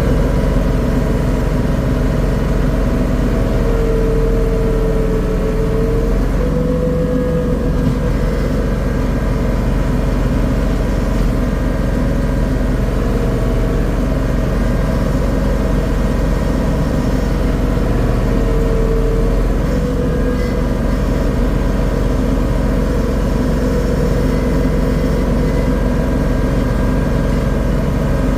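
Engine of a garden tiller running steadily while tilling, its pitch sagging briefly a couple of times under load.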